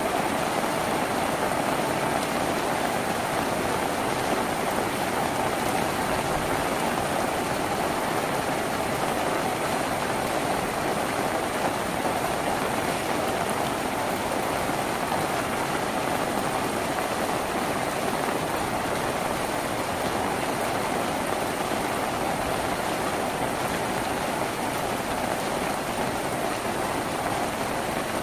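Steady rain drumming on a tin roof, an even unbroken patter with no separate drops standing out.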